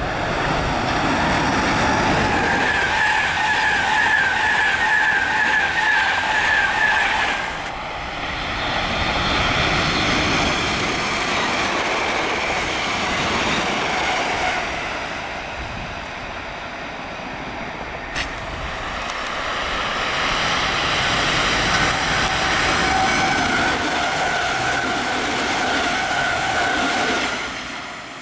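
Electric trains running through a station at speed, in three cut-together passes: a Class 91 InterCity 225, then a Class 313 electric multiple unit, then a Class 365 electric multiple unit. Each is a loud rush of wheels on rail; the first and last carry a steady tonal whine of traction motors. There is an abrupt change about a third of the way in and a click just past halfway.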